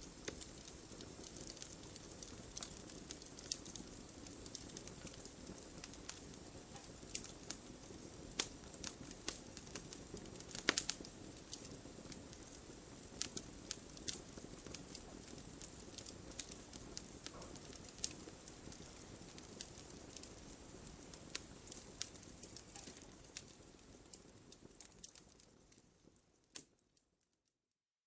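Wood fire crackling: a steady low hiss with frequent sharp pops and snaps, the loudest about eleven seconds in. It fades out to silence near the end.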